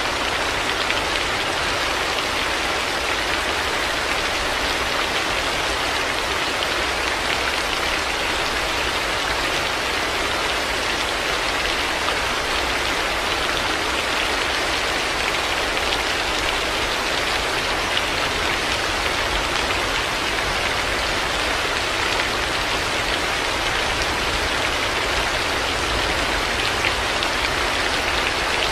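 Heavy rain falling steadily: a dense, even hiss with no thunder and no change in level.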